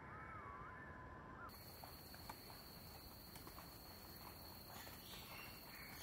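Faint bird calls. A thin, wavering whistle sounds for the first second and a half. After an abrupt change in the background, a steady high tone follows, with a few faint chirps near the end.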